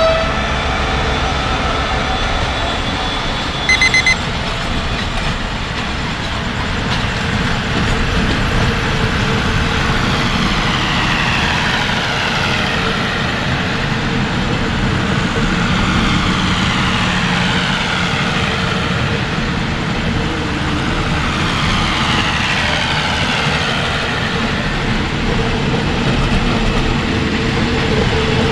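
Diesel passenger train standing at the platform with its engine running: a steady hum and low rumble. A brief beeping comes about four seconds in, and three slow falling tones pass over the hum later on.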